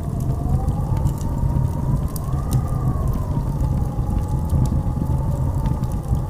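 Blizzard wind howling: a whistling tone that slowly rises and falls over a deep, steady rumble, with scattered sharp ticks.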